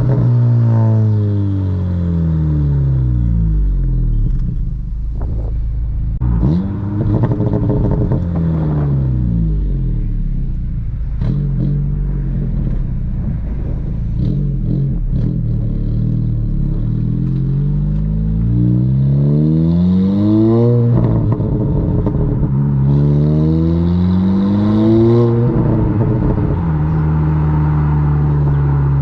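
Exhaust of a 2022 Honda Civic Si's 1.5-litre turbocharged four-cylinder, fitted with a 27WON downpipe and the factory exhaust, heard from the rear of the car while driving. The engine note falls at first, then climbs under acceleration and drops sharply at three gear changes, about 9, 21 and 25 seconds in, before holding steady near the end.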